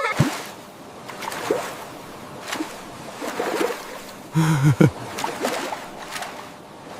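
Water splashing and sloshing, with a short pitched voice-like sound about four and a half seconds in.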